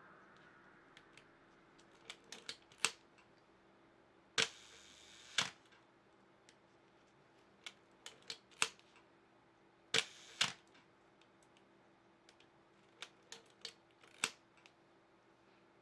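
Pentax Spotmatic's mechanical shutter fired twice at slow speeds. Each firing is a loud clack, then a steady buzz from the slow-speed escapement (about a second the first time, half a second the second), then a closing clack. Clusters of lighter clicks come between the firings.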